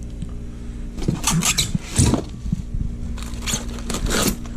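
Rustling and scraping of packaging as kit parts are handled and unpacked, in several irregular bursts about a second apart, over a steady low hum.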